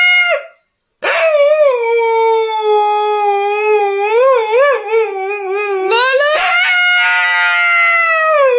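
A dog howling in long, drawn-out howls. A howl trails off just after the start, then after a short pause comes a long howl that wavers in pitch, and a second, higher howl begins about six seconds in.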